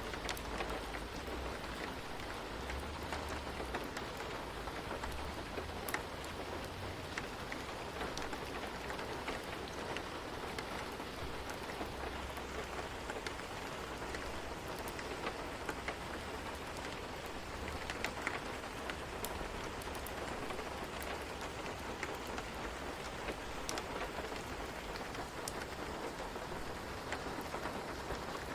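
Steady rain falling, an even hiss dotted with many small ticks of individual drops, with a faint low rumble coming and going underneath.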